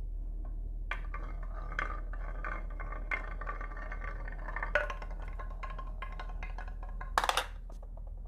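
Marbles and small wooden toys clattering down a wooden marble run and slope: a dense stream of ringing clicks and clacks starting about a second in, with a loud burst of clatter near the end before it dies away.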